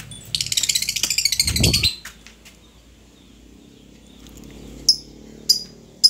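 Small birds chirping: a fast, chattering trill for the first two seconds, with a low thump near its end, then three short, sharp chirps near the end.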